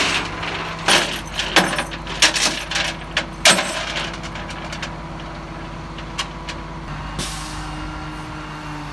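A vehicle engine idling steadily, with a string of sharp metallic clanks and knocks in the first few seconds and a short hiss about seven seconds in.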